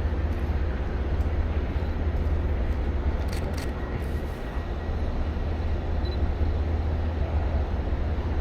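Steady low rumble of outdoor city noise, with two light clicks about three and a half seconds in.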